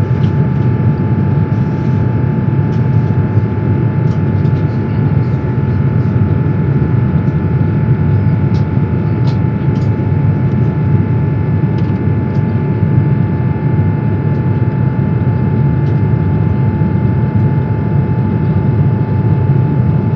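Steady in-flight cabin noise of an Airbus A350-1000 airliner: a loud, even rumble of engine and airflow with a few thin steady whining tones above it and some faint clicks.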